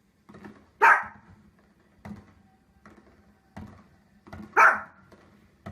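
A dog barking: two loud, sharp barks about three and a half seconds apart, with softer short sounds in between.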